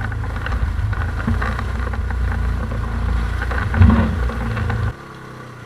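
ATV engine running steadily, with scattered knocks and clatter over it. About five seconds in the engine sound drops away suddenly.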